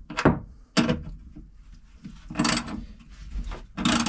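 Ratchet wrench being worked in short strokes on a jet ski engine mount bolt, four quick clicking, scraping bursts about a second apart.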